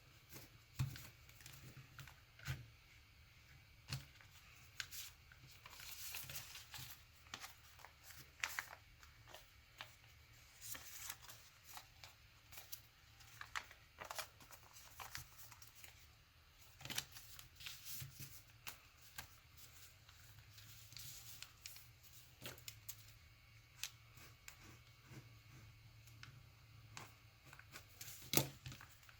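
A sheet of origami paper being folded and creased by hand: faint, irregular rustles and crisp clicks of paper, over a low steady hum.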